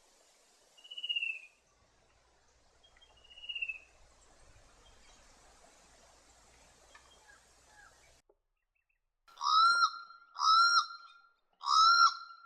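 Fan-tailed cuckoo giving two short descending whistled calls, about a second and three and a half seconds in. Near the end, loud harsh calls of a channel-billed cuckoo start up, about one a second.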